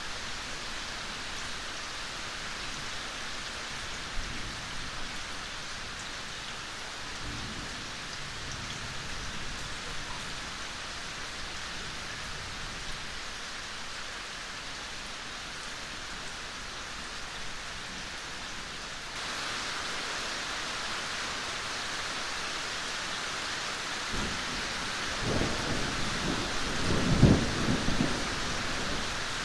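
Steady rain falling in a forest, a continuous hiss of drops that gets slightly louder about two-thirds of the way in. Near the end a low rumble of thunder rolls and swells, peaking briefly before fading.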